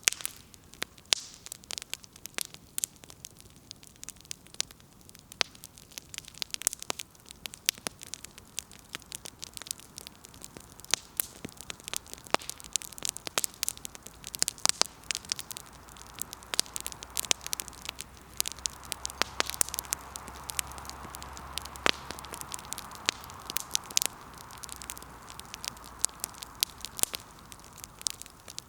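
Wood fire crackling, with frequent sharp pops and snaps of burning firewood. About halfway through, a steady hiss and low rumble swell up under the pops, then fade near the end.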